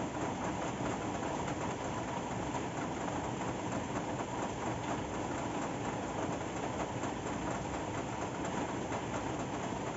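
Steady rain falling, a dense, even patter of drops that holds at one level throughout.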